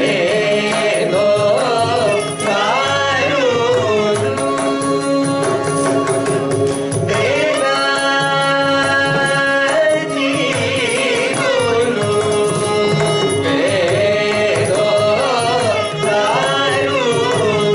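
Carnatic vocal music: a voice sings ornamented, sliding melodic phrases over a steady drone, with mridangam strokes keeping a steady rhythm throughout.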